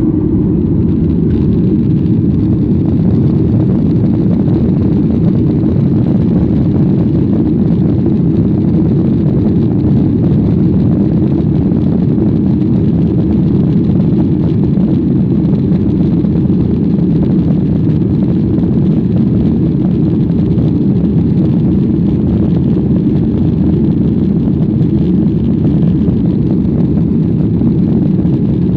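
Airliner's jet engines at takeoff power heard from inside the cabin: a loud, steady, deep noise that holds level throughout, with no separate knocks or changes.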